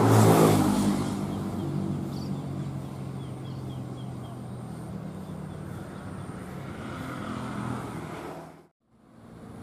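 Diesel passenger train going away: a steady low engine hum over the rumble of wheels on rails, loudest at the start and slowly fading. It cuts off abruptly near the end.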